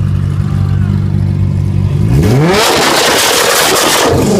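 Nissan GT-R R35's twin-turbo V6 exhaust idling steadily, then revved hard about two seconds in. The pitch climbs quickly into a loud blast that holds for about two seconds and falls back near the end.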